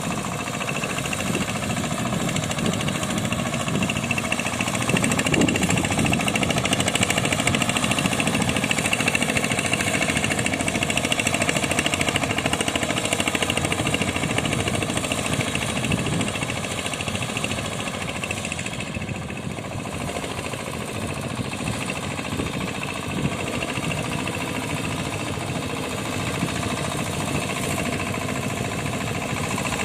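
Engine of a tractor-powered boat running steadily under throttle. It gets a little louder about five seconds in and eases off slightly around twenty seconds.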